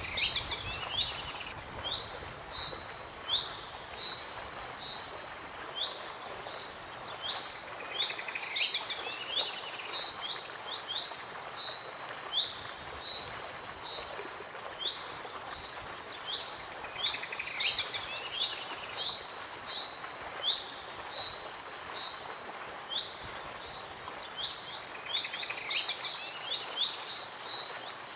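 Birdsong: a songbird singing the same phrase over and over, a run of short high sweeping notes ending in a fast buzzy trill, about every eight to nine seconds, over a steady hiss.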